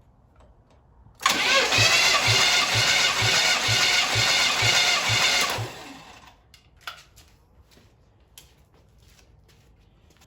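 Starter motor cranking a Pontiac V8 engine for about four and a half seconds, with an even beat of about two compression strokes a second, during a compression test of cylinder number 8. Cranking stops suddenly, and a few faint clicks follow.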